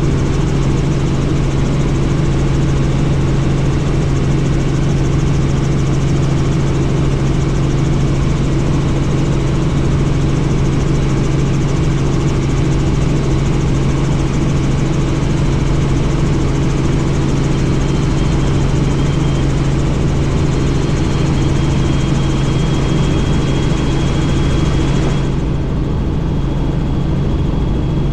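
Helicopter in flight, heard from a doors-off cabin: a steady deep drone from the engine and rotor under a dense rushing hiss. The hiss drops away suddenly near the end while the drone runs on.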